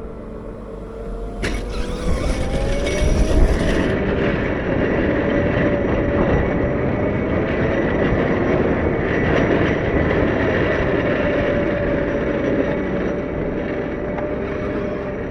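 Caterpillar 908 compact wheel loader running while pushing snow. It gets much louder about a second and a half in and then holds steady, with a wavering whine and a higher thin tone over a rough, rushing noise.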